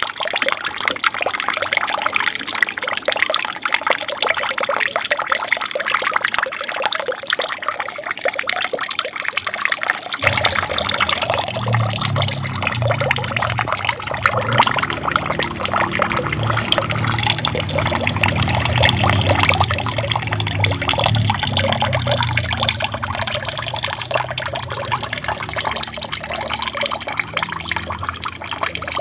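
Water trickling and splashing steadily down a small aquarium waterfall. About ten seconds in, a low rumble joins the splashing and carries on under it.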